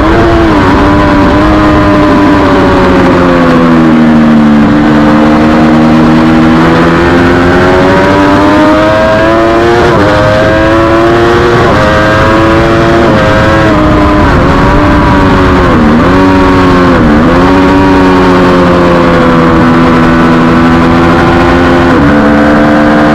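Triumph Daytona 675R's three-cylinder engine running hard at high revs, heard onboard. The pitch climbs, then steps down at each gear change, with two quick drops in pitch about two-thirds of the way through.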